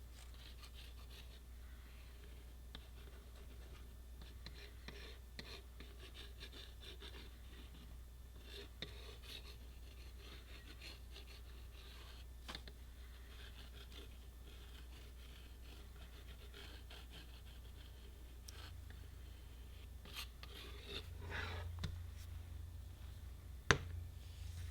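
Faint scratching and rubbing of an adhesive bottle's nozzle being dragged along the edge of a broken plastic piece to spread the glue, over a steady low hum, with a sharper click near the end.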